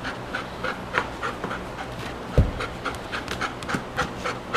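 Black Labrador retriever panting rapidly, about four breaths a second, as it comes out of an epileptic seizure. A single dull thump about halfway through.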